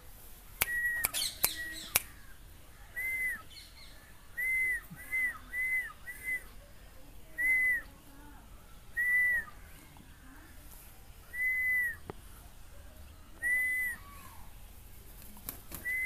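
Short whistled bird calls. Each note rises and falls, and they repeat every second or two, sometimes in quick runs of three or four. A few sharp clicks sound in the first two seconds.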